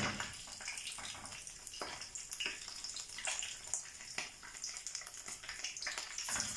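Rice-stuffed mombar (beef sausage casing) frying in hot oil in a pan: a steady sizzle with many small scattered pops and crackles.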